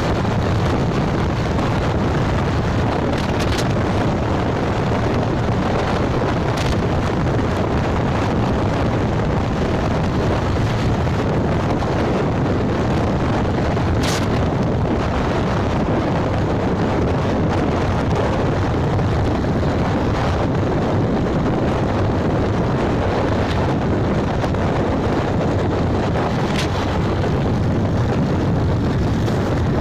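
Steady wind rush on the microphone from riding a motorbike, mixed with engine and road noise, with a few brief sharp clicks.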